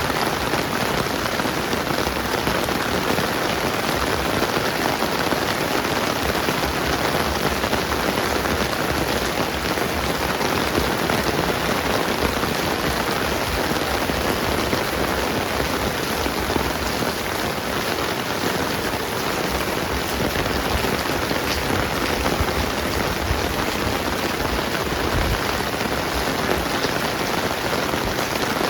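Steady rainfall: an even, unbroken hiss of rain falling on the ground and surfaces around.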